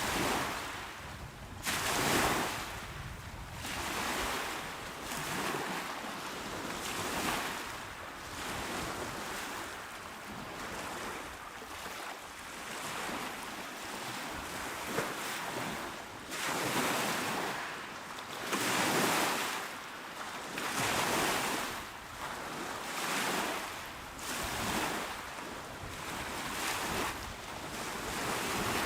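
Small waves washing onto a shore, a steady hiss of surf that swells and ebbs every couple of seconds as each wave breaks and draws back.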